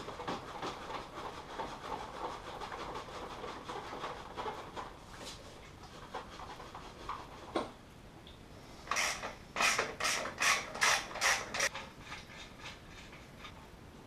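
Hand-tool work on moped parts: a run of rapid light clicks for the first few seconds, a single sharp knock, then about seven quick scraping strokes.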